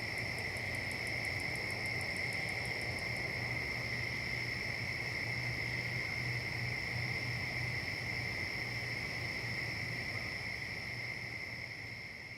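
Insect chorus: a steady, unbroken high trill at two pitches, with a faster pulsing, even higher chirp over roughly the first three seconds. It all fades out near the end.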